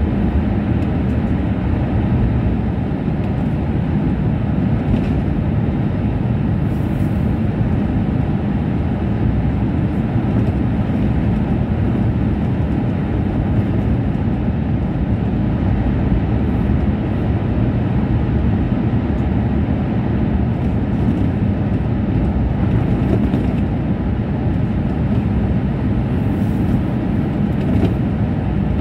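Steady low rumble of a Tohoku Shinkansen train running at high speed, heard inside the passenger cabin, with a few faint ticks.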